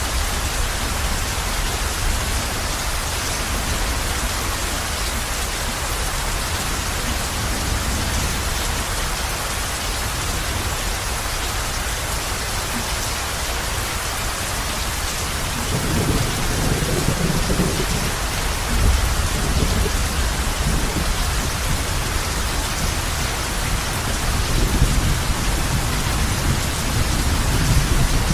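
Heavy rain beating steadily on a roof, with thunder rumbling low from about halfway through and swelling again near the end.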